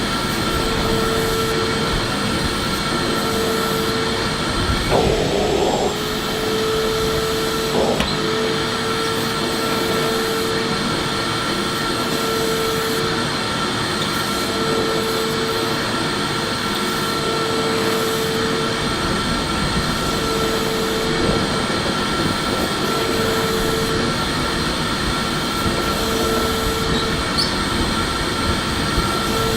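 Electric vacuum cleaner running steadily: a continuous rush of air with a steady motor whine. A lower hum drops out and comes back every second or two, and there is a brief scuffing noise about five seconds in.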